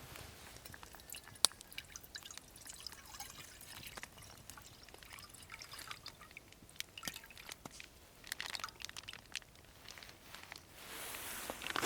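Light, irregular dripping and clicking, with one sharp clink about a second and a half in.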